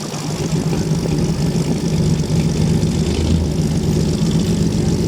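An engine running steadily at a low, even pitch, as if idling.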